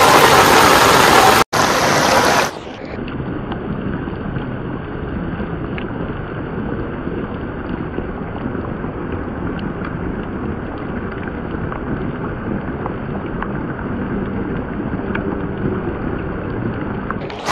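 Heavy rain pouring onto stone paving as a loud, even hiss. After a cut about two seconds in, the rain sounds duller and quieter, with occasional faint ticks of single drops.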